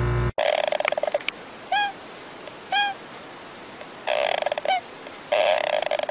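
Small animal's squeaky snoring from a sleeping hamster lying on its back: short fast rattling trains alternate with single short squeaks that rise then fall, about once a second.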